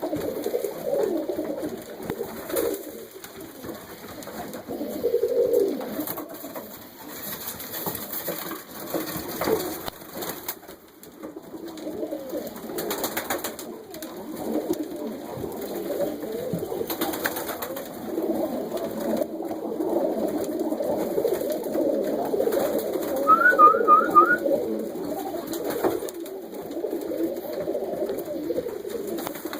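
Many pigeons cooing together in a loft, a continuous overlapping murmur of low coos. About 23 seconds in, a quick run of three or four short, high rising chirps is heard.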